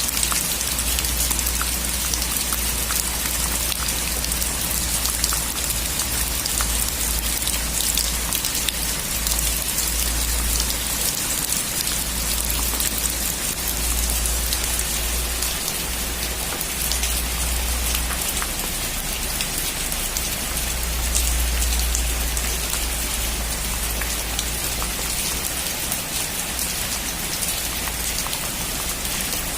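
Heavy rain on a metal roof: a steady hiss dotted with many sharp ticks of single drops, over a low rumble that swells and fades.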